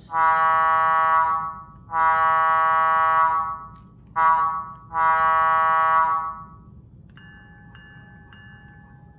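Simulated locomotive air horn from an HO-scale model's sound decoder, blown in the grade-crossing pattern: two long blasts, a short one, then a long one.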